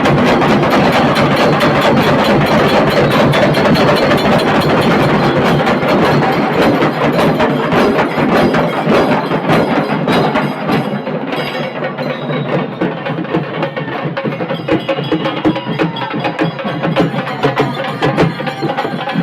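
Dhol tasha band drumming: rapid, dense strokes on tasha and dhol drums in a fast, driving rhythm. The playing thins out and the bright, crisp strokes drop back about halfway through.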